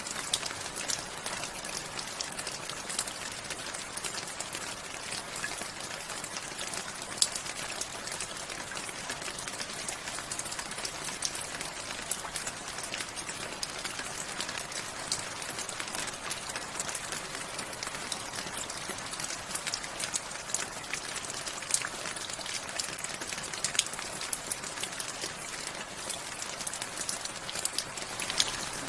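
Steady rain falling, an even hiss with many sharp individual drops ticking on a hard surface.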